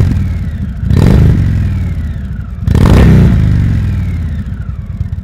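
Indian Scout Sixty's liquid-cooled 61 cubic inch V-twin revved in three sharp throttle blips, about a second in, near three seconds in, and once just before the start, with the revs falling back toward idle after each one.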